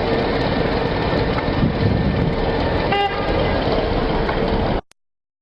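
Steady road and engine noise of a moving vehicle, with one short car-horn toot about three seconds in. The sound cuts off abruptly near the end.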